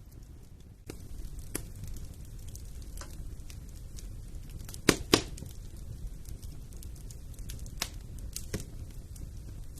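Wood fire burning in a fireplace: a steady low rush of flame with scattered sharp crackles, and two loud pops in quick succession about five seconds in.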